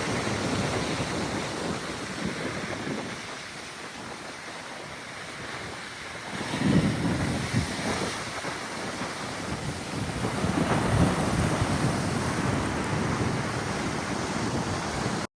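Strong wind buffeting the microphone over breaking surf, with louder surges about seven and eleven seconds in. The sound cuts off suddenly near the end.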